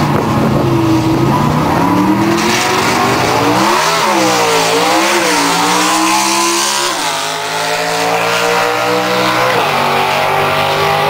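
Drag-racing car's high-revving engine launching and accelerating hard down the strip, its pitch climbing and then dropping sharply at quick gear changes through a Jerico gearbox, about 4, 7 and 9.5 seconds in.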